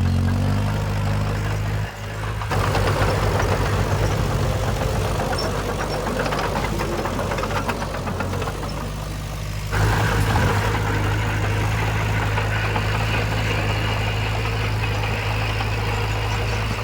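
Diesel engine of heavy earthmoving machinery running steadily, with rattling and clatter over it. The sound changes abruptly about two and a half seconds in and again near ten seconds.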